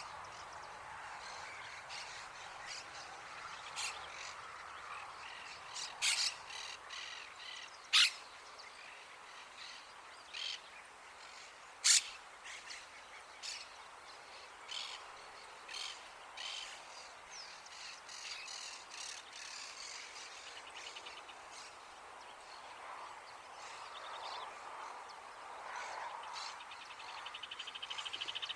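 Rufous hornero calling: scattered short, sharp notes, the loudest about six, eight and twelve seconds in, then a fast, even trill near the end. A faint steady background noise runs underneath.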